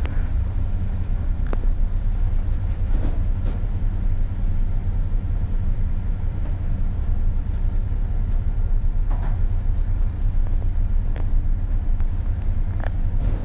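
Strong storm wind at sea rumbling steadily and heavily, with a few sharp ticks scattered through it.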